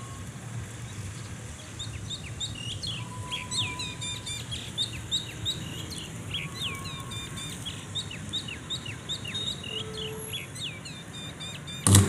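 Birds chirping, a quick run of many short, sharp chirps over a low background rumble. A loud thump near the end.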